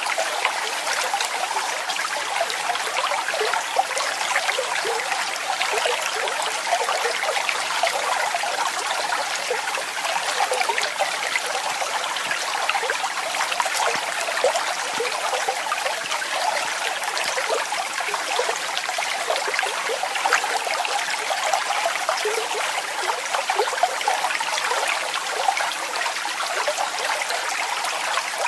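Small waterfall running steadily, a continuous splashing of falling water with many small splashes and no deep rumble.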